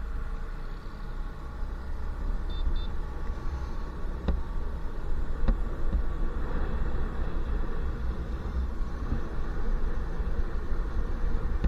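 Motorcycle riding along: steady engine and road rumble with heavy wind buffeting on the microphone. Two short high beeps come about two and a half seconds in, and there are a couple of sharp clicks.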